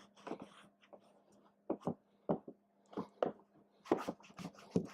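Microfiber applicator pad wiping dressing onto plastic engine-bay trim: a series of short, irregular scuffing strokes over a faint steady hum.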